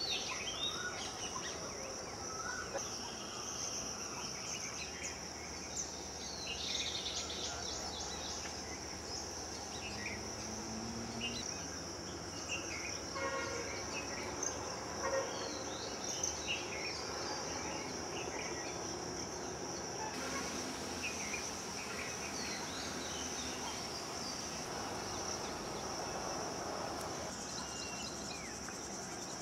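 Steady high-pitched drone of insects, with many short bird chirps and calls scattered over it.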